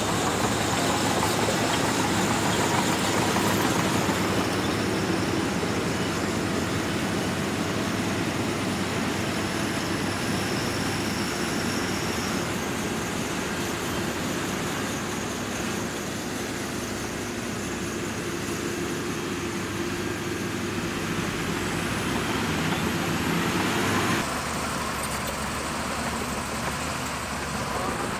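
Diesel engine of a Shantui DH17C2 bulldozer running steadily under work. Near the end the engine note changes suddenly and becomes a little quieter.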